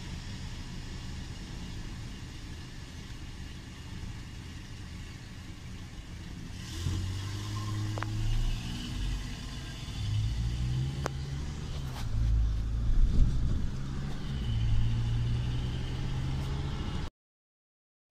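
Car engine heard from inside the cabin, idling low and steady, then pulling away from about seven seconds in, its note rising and stepping through the gears. The sound cuts off about a second before the end.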